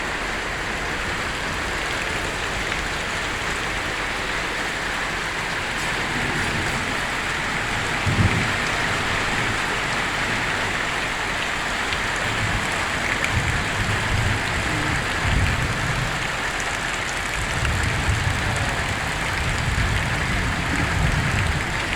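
Heavy rain falling steadily, a dense even hiss. Low rumbles come and go in the second half.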